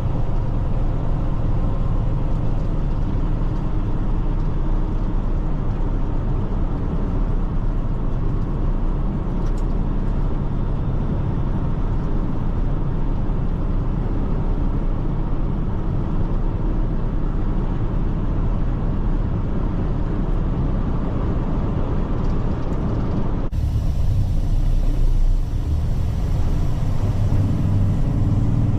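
Heavy truck driving on the road: steady engine hum with tyre and road noise. About 23 seconds in the sound changes suddenly, with a stronger low engine hum.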